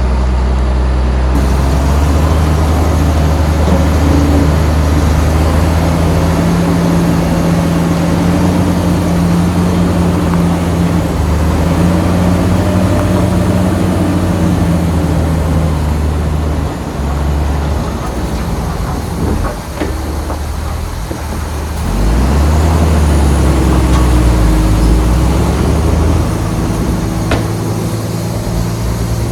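Heavy diesel engine of earthmoving machinery running under load, with a deep steady note. The engine eases off and goes quieter for a few seconds past the middle, then pulls hard again.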